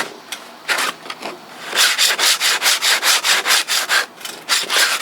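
A strip of abrasive belt sandpaper drawn back and forth by hand through a narrow slot in a maple handle blank, rasping as it widens the slot to fit a saw blade. A few separate strokes, then a quick even run of about four strokes a second, a brief pause, and more strokes near the end.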